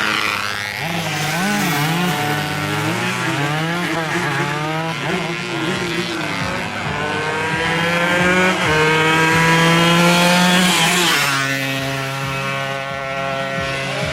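Several two-stroke 140 cc racing motorcycles at full throttle, their engine pitches climbing in steps as they shift up through the gears. About eleven seconds in, one passes close by and its pitch drops sharply.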